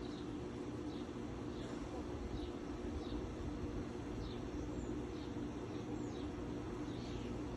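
A small bird chirping over and over, short downward-sliding notes about one every 0.7 seconds, over a steady low hum.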